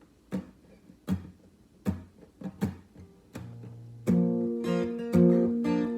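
Acoustic guitar: a few sharp muted strums about one a second open the song. From about four seconds in a full chord is strummed and left ringing.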